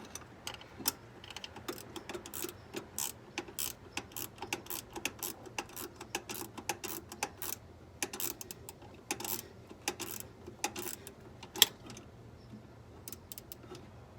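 Gasoline being poured from a 5-gallon plastic gas can into a fuel tank, with irregular clicks and pops as air works back into the can, one louder pop about three-quarters of the way through.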